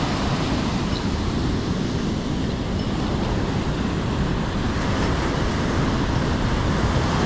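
Steady rushing noise of water and wind, heaviest in the low range with a rough, fluttering rumble.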